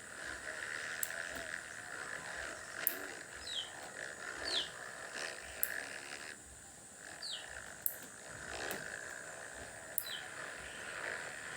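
Motocross dirt bikes racing on the track, heard faintly as a steady engine drone. A few short falling chirps and light clicks come through over it.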